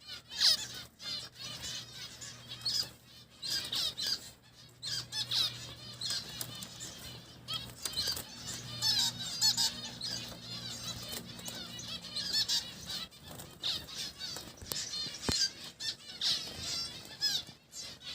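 Caged finches chirping, many short high calls overlapping throughout.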